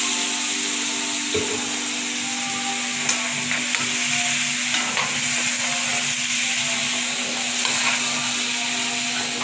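Tomato, onion and garlic paste sizzling in hot oil in a kadhai, stirred with a metal spoon that scrapes and clicks against the pan now and then. The paste has just gone in. A steady low hum runs underneath.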